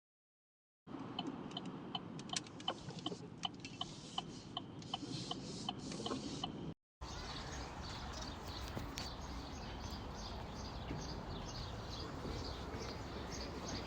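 Outdoor birdsong: birds chirping in quick repeated calls in two separately cut clips, the first with sharp chirps at several pitches, the second with rapid high chirps over steady background noise.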